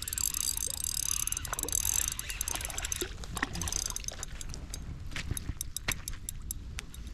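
Daiwa Luvious 2500 spinning reel cranked fast, a steady high-pitched whir of its gears as a crappie is reeled in. About three seconds in the whir mostly stops and scattered sharp clicks and taps follow.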